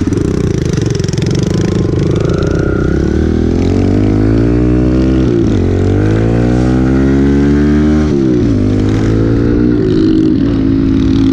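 A pit bike's small single-cylinder engine under way, revving up through a gear and then dropping in pitch as the rider shifts up, twice: about 5 s in and about 8 s in. It then holds a steady pitch near the end.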